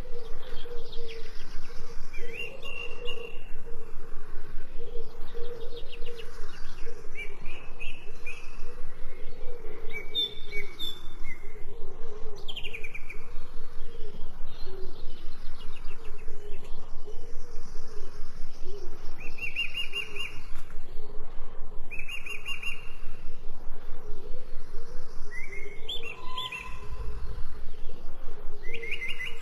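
Wild birds chirping and singing: short high chirps and trills every second or two, over a steady lower background with a fast, even pulse.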